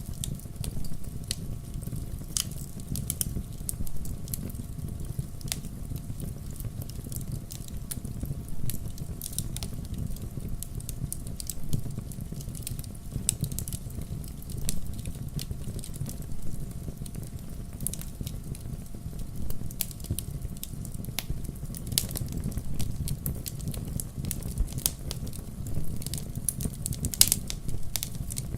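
Wood fire burning in a fireplace: a steady low rumble of flame with irregular sharp crackles and pops, a few louder pops near the end.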